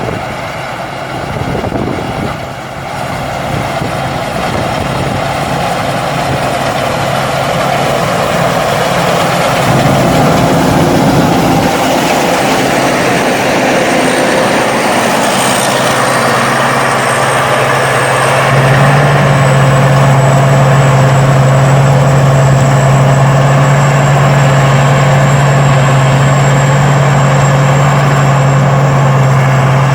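Rice combine harvester's engine running steadily, growing louder and stepping up to a stronger, steady drone about 18 seconds in, with a faint high whine over it.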